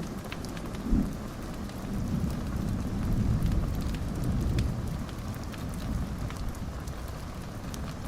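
Steady rain with a low rolling rumble of thunder that swells and fades over a few seconds, and scattered ticks of drops. There is a sharp low thump about a second in.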